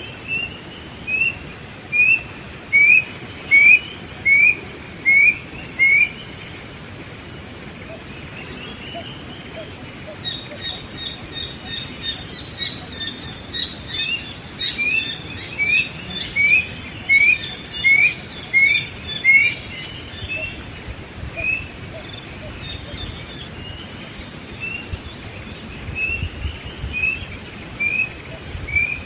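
Wild birds calling: one bird repeats a short rising whistled note about once or twice a second in several runs, while another twitters higher in the middle. A faint steady insect drone runs underneath.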